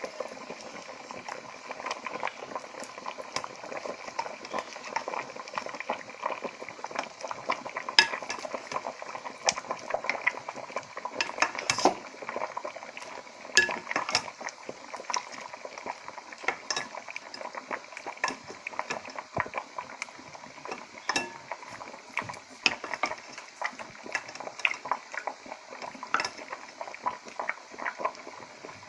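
Spoon clinking and scraping irregularly against a cooking pot as pepper soup with chicken and tripe is stirred, over a steady bubbling of the simmering soup. The sharpest clinks come about 8, 12 and 13 seconds in.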